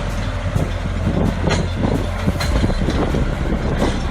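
Heavy diesel machinery running steadily, with scattered knocks and clanks.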